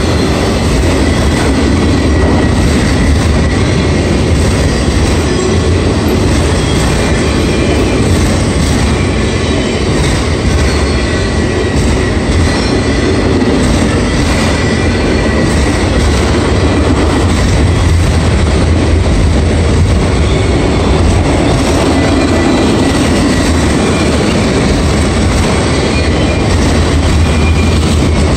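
Autorack freight cars rolling past at close range: a steady loud rumble of steel wheels on the rails, with a faint thin high squeal running through it.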